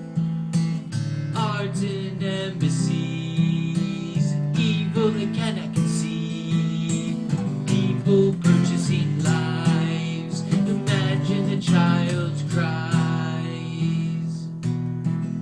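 Instrumental music: an acoustic guitar strumming steadily, with a melody line that bends in pitch over it.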